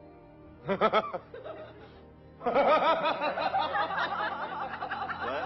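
Men laughing: a short burst about a second in, then longer, sustained laughter from about two and a half seconds in.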